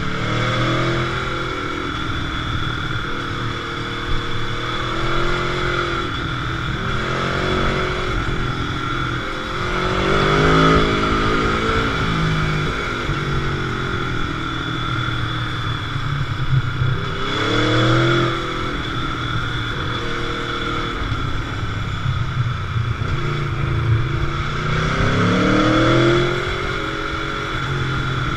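Motorcycle engine accelerating through the gears, its pitch rising in several pulls and dropping between them, over steady riding noise.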